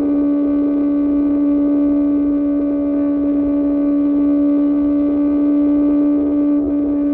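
A QJMotor SRK600's inline-four engine through an Austin Racing exhaust, held at steady high revs with one even pitch. It dips briefly near the end.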